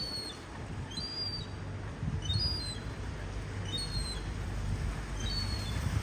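Gull chick giving short, thin, high-pitched peeping calls, about five of them roughly a second apart, begging for its parent. A low rumble runs underneath.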